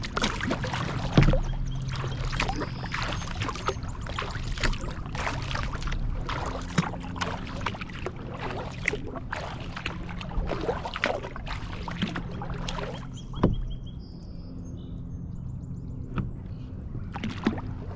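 Kayak paddling on a lake: the paddle dipping and splashing with water dripping off the blade, and a few sharp knocks, the loudest about a second in and at about three-quarters through. The splashing thins out briefly after that knock before picking up again near the end.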